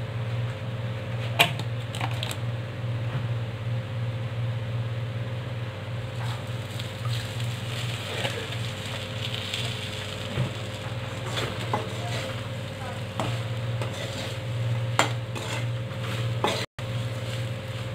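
Besan-coated green chillies sizzling in oil in a steel kadhai, with a metal spatula stirring and scraping, clicking against the pan now and then. A steady low hum runs underneath.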